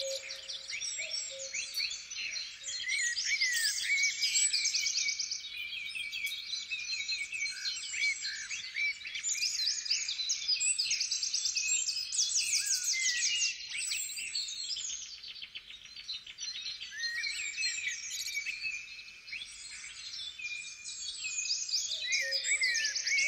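A dense chorus of small songbirds chirping and trilling, many quick calls overlapping throughout, with a lower held note in the first two seconds and again near the end.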